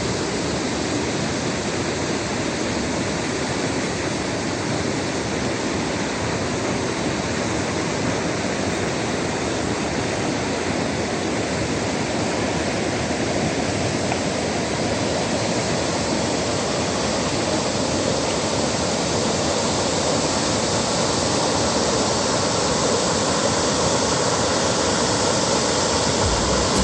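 Mountain stream running high and fast after heavy rain, a steady loud rush of water over rocks.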